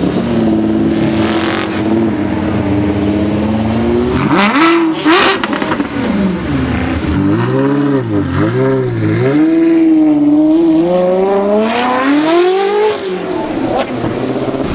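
Car engine revving as it pulls away from a car show: a steady drone at first, a sharp rev about four seconds in, two quick blips of the throttle, then a long rising acceleration that falls away near the end.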